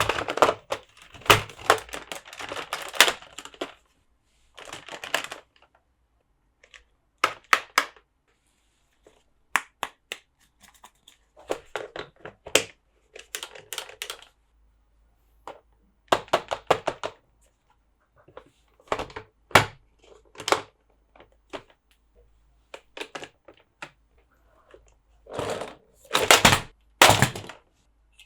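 Plastic toy packaging and toy parts being handled: scattered sharp clicks and taps with short bursts of crinkling, coming in clusters with pauses between them, loudest in a run of bursts near the end.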